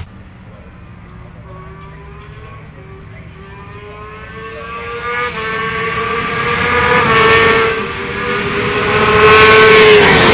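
A 2008 Kawasaki ZX-10R sportbike's inline-four engine running hard at high revs as the bike approaches along the track. It starts faint and grows steadily louder, with a brief dip about eight seconds in, and is loudest near the end as it comes close.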